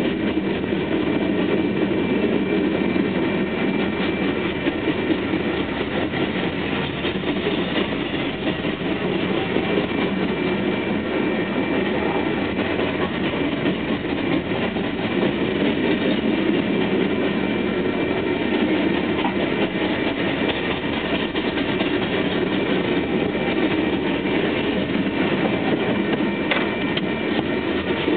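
Freight train of hopper cars rolling past: a steady rumble and clatter of steel wheels on the rails.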